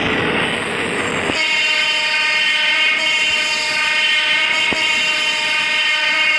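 Philippine National Railways train passing close, with a rushing wheel-and-rail noise at first and then a steady horn held for several seconds, starting about a second and a half in.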